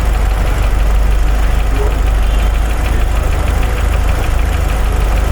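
GM Astra four-cylinder engine idling steadily after the water-pump noise repair, running smooth and even, with a light, fast, even ticking over the idle.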